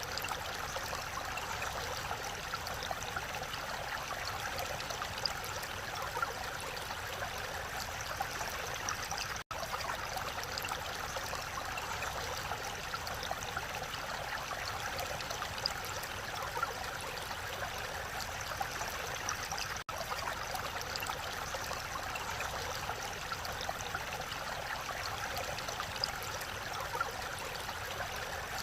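Mountain valley stream flowing over rocks: a steady, even rush and babble of water, briefly cut out for an instant twice.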